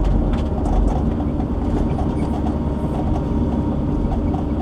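Diesel engine and hydraulics of a logging shovel (grapple excavator) running steadily under load while lifting a heavy log, a continuous low rumble with a few faint knocks.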